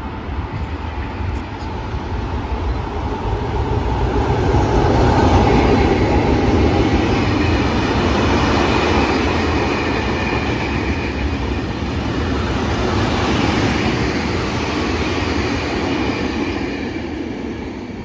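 Electric freight train of hopper wagons passing: the steady rumble and rattle of its wheels on the rails builds to its loudest about five seconds in, stays strong while the wagons go by, then fades near the end.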